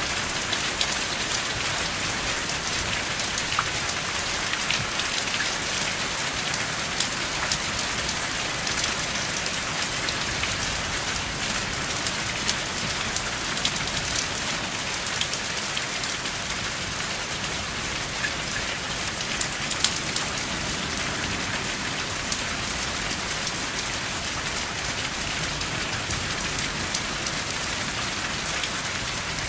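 Steady heavy rain: an even hiss with many sharp drop taps scattered through it, and no thunder.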